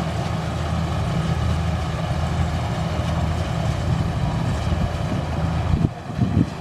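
Kubota rice combine harvester's engine running steadily under load. Near the end the steady drone breaks up into uneven pulses.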